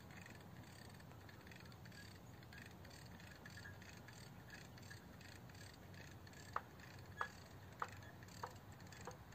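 Faint outdoor background, then a bird calling five times in quick succession, the short sharp calls a little over half a second apart, about two-thirds of the way in.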